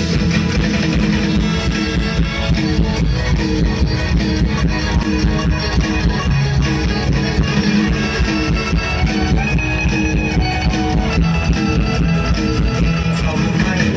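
Band playing an instrumental passage of an Isan pop song: guitar over a steady drum beat.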